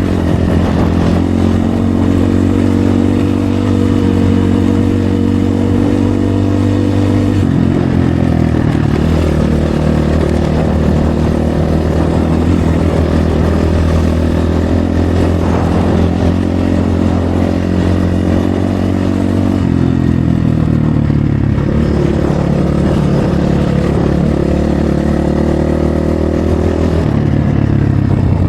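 RVM CZ 250 T Pro enduro motorcycle engine running on the move, holding steady for long stretches. Its pitch steps down about seven seconds in and shifts again around twenty seconds in and near the end.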